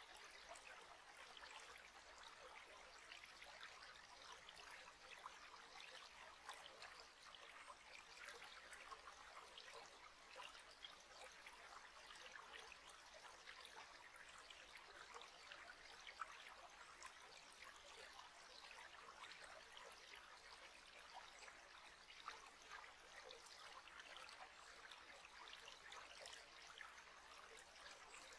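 Faint, steady trickle of a small stream, water bubbling and splashing continuously.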